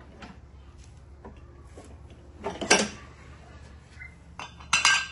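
Metal clanking twice, about two seconds apart, as tools or metal parts knock together; the second clank rings briefly.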